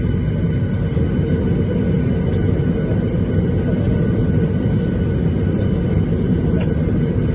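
Steady low rumble inside the passenger cabin of a Boeing 737-800, from the running jet's engines and air-conditioning.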